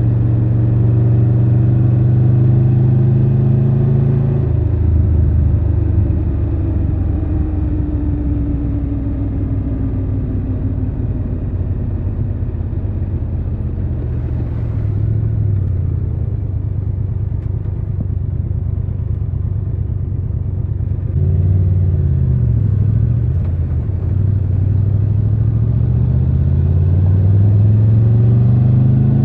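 Triumph Tiger 1200 Rally Pro's inline three-cylinder engine under way: holding steady revs, then easing off with the pitch falling through the middle, a couple of quick rev changes a little past the middle, and pulling up through the revs with a rising note near the end.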